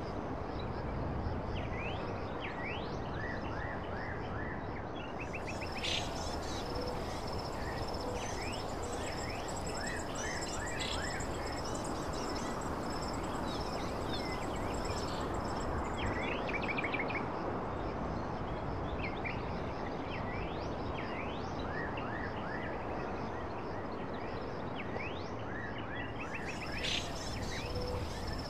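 Outdoor nature ambience: small birds chirping repeatedly over a steady hiss of noise, with a high insect trill that comes in about five seconds in, stops about halfway through, and returns near the end.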